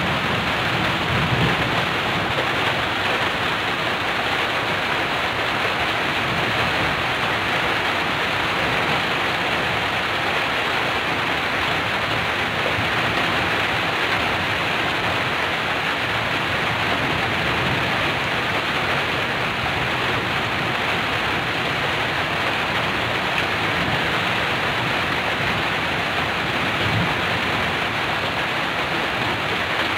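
Heavy rain falling steadily on a tin roof, with a low rumble of thunder dying away in the first couple of seconds.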